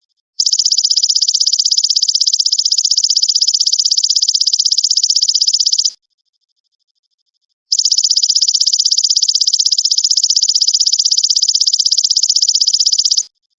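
Belalang emas (golden grasshopper) singing a loud, very fast buzzing trill, high-pitched. It runs in two long bouts of about five seconds each, with a short pause of a little under two seconds between them. It is used as a tutor song for training cage birds.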